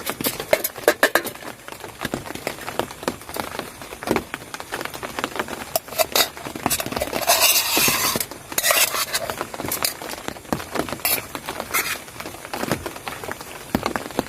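Cooking utensils clinking and scraping against pots and dishes in a run of short clicks, with two longer scraping stretches a little past the middle.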